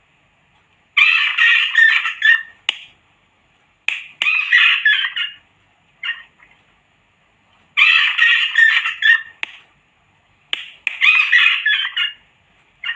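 Recorded rat screams: harsh squealing calls in bursts of about a second, with short clicks between them. They repeat in a loop roughly every seven seconds, played as a rodent-repellent sound.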